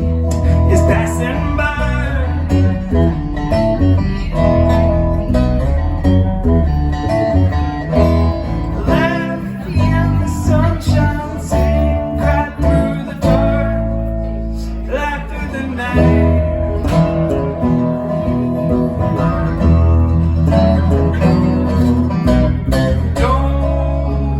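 Live band playing a guitar-led song over a strong bass line, with percussive hits throughout.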